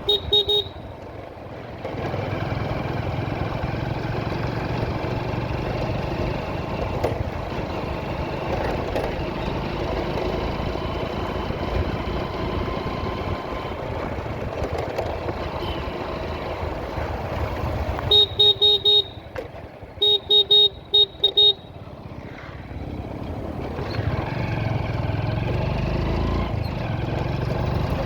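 Steady engine and road noise of a vehicle riding through traffic, broken by a short horn beep at the start and, about two-thirds of the way in, two quick strings of loud horn toots.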